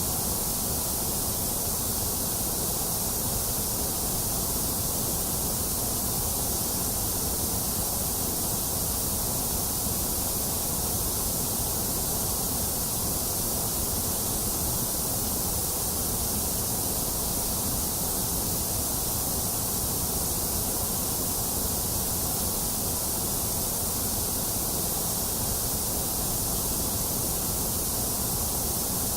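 Steady white noise: an unbroken, even hiss with a full low rumble and bright top, slightly hollow in the upper middle, with no changes or events.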